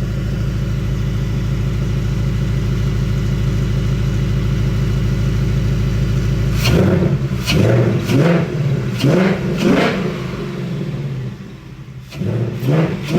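2024 Ford Mustang GT's 5.0 L V8 idling steadily, then revved in a run of quick blips from about seven seconds in, easing off briefly before a few more near the end. Heard at the intakes, which are fitted with high-flow Steeda air filters and have their carbon traps removed.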